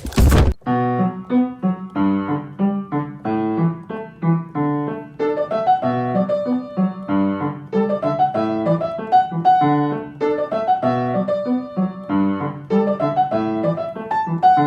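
Background piano music: a light tune of struck notes and chords at a steady beat, after a brief burst of noise at the very start.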